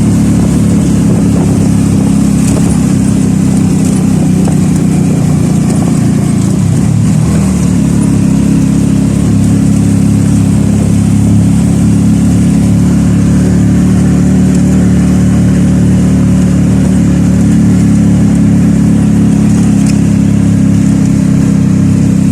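A motor vehicle's engine running steadily and loud, heard close up as a low droning hum. Its tone shifts slightly about seven seconds in.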